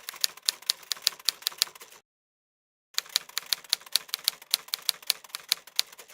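Rapid typewriter-like key clicks, about five a second, in two runs. The first run stops about two seconds in, and after a second of complete silence the second run starts and carries on.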